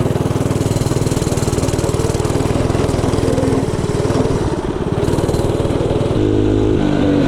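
Mini bike's small engine running under throttle with a rapid pulsing exhaust note. About six seconds in the note changes to a steadier, even pitch.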